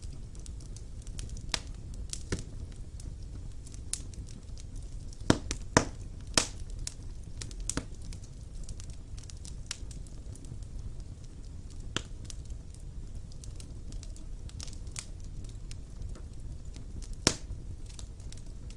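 Fire burning in a stone fireplace: a steady low rumble of flames with sharp crackles and pops at irregular intervals. The loudest pops come in a cluster about five to six and a half seconds in and once more near the end.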